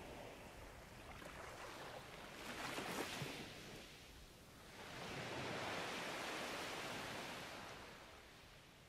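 Faint wash of water: two soft swells of wave noise, a short one a few seconds in and a longer one in the second half, each rising and fading away.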